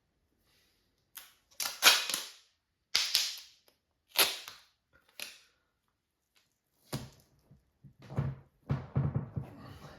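Tape being pulled and torn off a roll in a series of short, sharp rips, the loudest about two seconds in. Rustling handling noise follows near the end.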